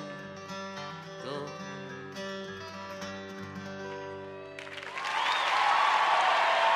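Live acoustic guitar and a held sung note ending a folk song. About four and a half seconds in, audience applause and cheering break out, louder than the music.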